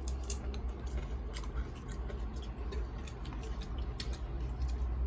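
Close-up chewing of crunchy food, a run of irregular crisp crunches and clicks, over a steady low hum.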